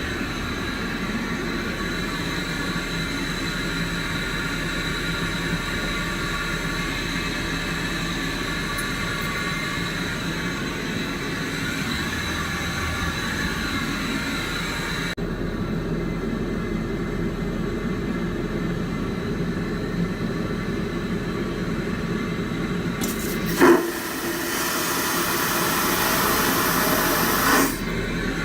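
Steady cabin noise inside a Boeing 777-200 airliner: a constant rumble and rush with a thin high whine. It changes abruptly about halfway through, and near the end there is a brief loud knock followed by a few seconds of louder hiss.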